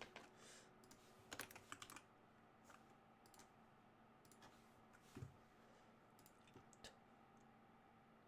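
Faint computer keyboard typing: scattered key presses, with a quick run of keystrokes about a second and a half in, then a few sparse taps.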